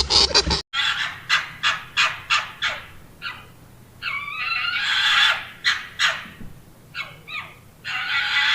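Geese honking: a run of short repeated honks, with a longer drawn-out call around the middle and another near the end.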